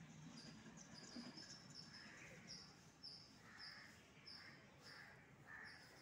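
Faint bird chirping: a high chirp repeated evenly a little under twice a second from about midway, with softer calls beneath it.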